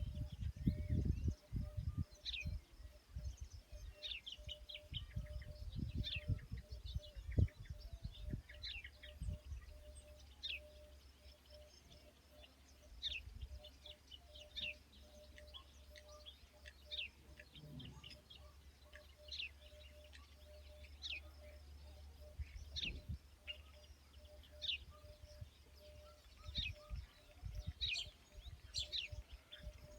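Small birds chirping and calling, short separate notes scattered throughout, over a faint outdoor background. Low rumbling thumps come and go in the first several seconds.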